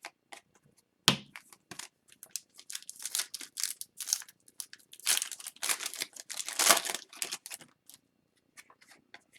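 A foil trading-card pack wrapper being torn and crinkled, with cards rustling as they are handled: a run of short tears and rustles, densest and loudest about five to seven seconds in.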